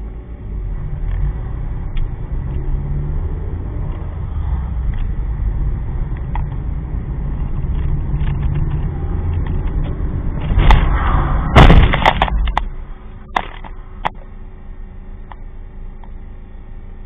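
Car driving with a steady low road and engine noise, then a loud crash about ten seconds in: two seconds of crunching impact, followed by a couple of sharp knocks.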